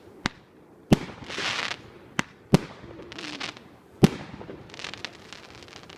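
Fireworks going off: five sharp bangs, the loudest about four seconds in, with bursts of crackling after several of them.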